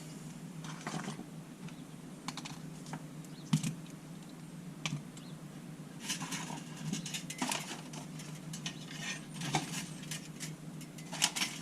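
Ratcheting pop-rivet gun being worked to set a 3/16 rivet through galvanized steel sheet: irregular ratchet clicks and small metallic clinks, with one sharp crack about three and a half seconds in, over a steady low hum.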